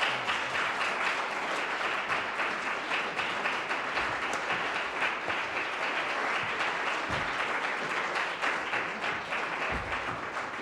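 Live audience applauding, a steady burst of many hands clapping that fades away just after it ends.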